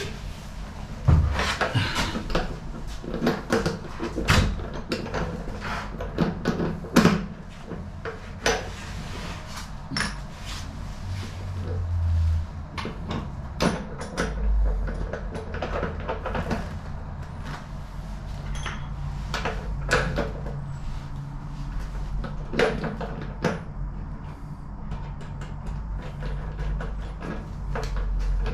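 Irregular clicks, knocks and rattles of hands and tools working on a washing machine's casing and panels, over a low steady hum.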